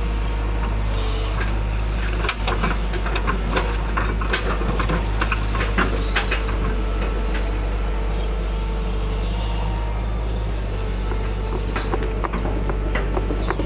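Hydraulic excavator's diesel engine running steadily, with a scatter of sharp clicks and knocks from about two to seven seconds in and again near the end.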